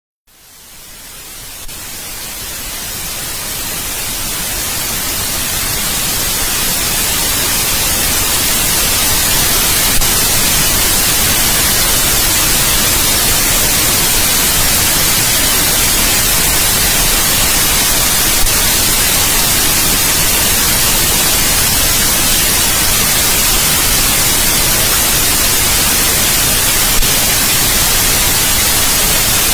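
Steady white noise, an even full-range hiss. It fades in from silence over the first several seconds, then holds level, with a few faint clicks along the way.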